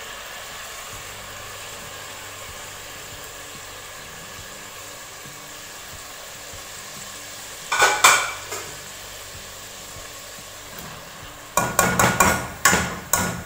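Soaked mash (urad) dal sizzling gently in hot oil and tomato masala in an aluminium pot. There is a short metal clatter about eight seconds in. Near the end comes a rapid run of metal knocks as a mesh strainer is knocked against the pot while more dal is tipped in.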